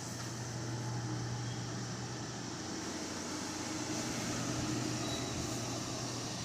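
Steady low mechanical hum under even background noise.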